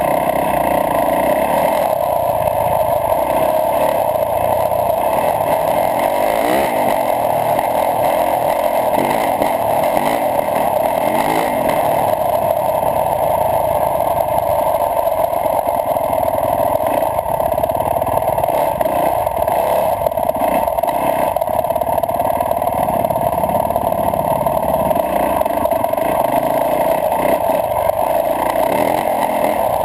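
Yamaha YZ450F's single-cylinder four-stroke engine running steadily as the dirt bike is ridden along a sandy track, with the pitch rising and falling with the throttle a few times near the middle.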